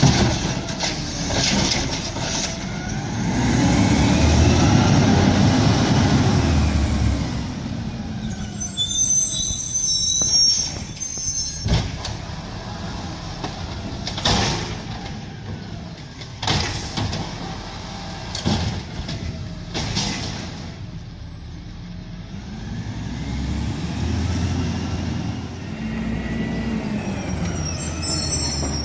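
Refuse truck at work: the diesel engine revs up and back down twice, once near the start and again near the end, with a string of sharp metallic bangs in between. High squeals come around ten seconds in and again at the end, and there is a hiss of air brakes.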